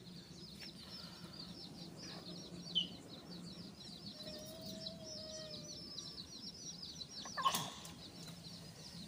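A small bird calls a fast run of high, repeated chirps, about five a second, over faint outdoor background with chickens clucking. A single sharp knock comes near the end.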